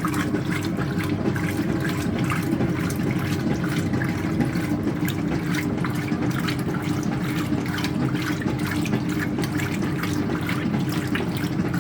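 Speed Queen top-loading washing machine agitating a load of towels: a steady sloshing and churning of water over the running motor.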